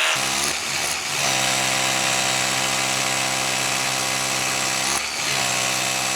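Bosch cordless rotary hammer running on test after repair, its motor holding a steady pitch. The sound dips briefly near the start and again about five seconds in. The tool runs with good power after its failed controller was bypassed.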